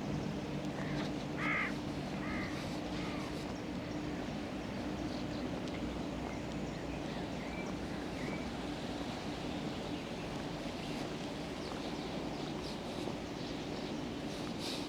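Outdoor ambience with birds calling: a few short harsh calls a second or two in, then fainter chirps, over a steady low hum.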